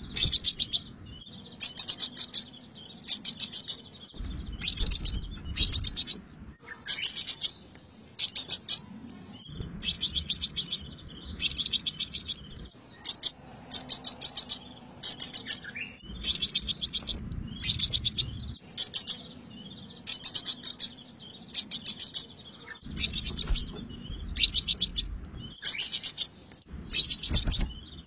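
Crimson sunbird calling: short bursts of rapid, sharp high notes, one burst about every second.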